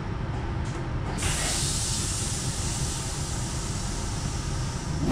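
Regional train running, heard from inside the coach: a steady low rumble from the wheels and running gear, joined about a second in by a sudden steady hiss that stays on.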